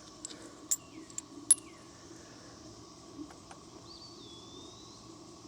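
A few light metallic clinks of steel washers and spacers being handled and sorted, with a faint steady hum behind them.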